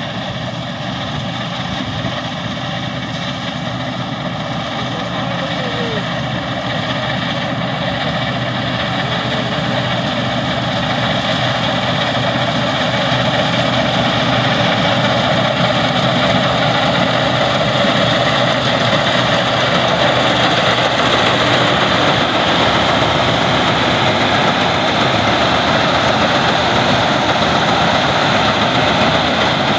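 Combine harvester running steadily, its engine and machinery noise growing louder over the first half and then holding steady.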